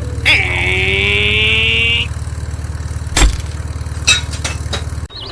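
Small engine running steadily with an even low pulse, which cuts out near the end. A high wavering whine rides over it for the first couple of seconds, and there are a couple of sharp knocks later.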